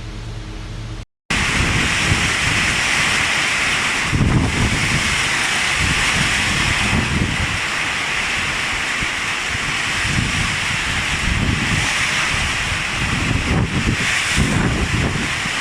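Steady rush of flowing water, with wind gusts buffeting the microphone in low, irregular rumbles.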